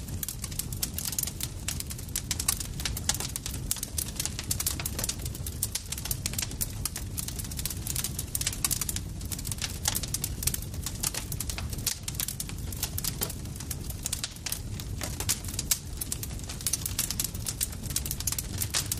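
Campfire crackling: a dense, irregular stream of sharp pops and snaps over a steady low rumble of burning wood.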